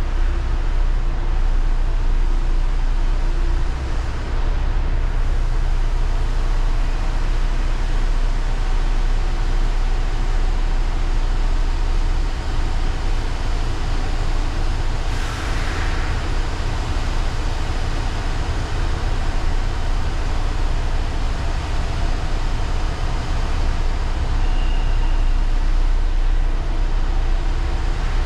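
Heavy diesel engine running with a steady low rumble, with a brief hiss about halfway through.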